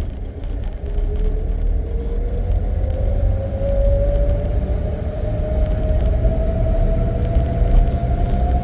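Safari vehicle driving on a jungle track: a steady low engine and road rumble, with a whine that rises slowly in pitch as the vehicle gathers speed.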